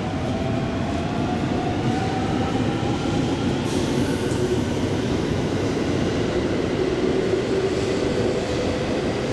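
JR Central 211 series electric train pulling away and gathering speed. Its motor and gear hum rises steadily in pitch over a dense wheel-and-rail rumble.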